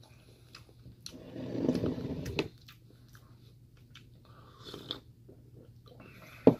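Mukbang mouth sounds of chewing and a sip from a ceramic mug, with small clicks. Near the end there is one sharp knock as the mug is set down on the table.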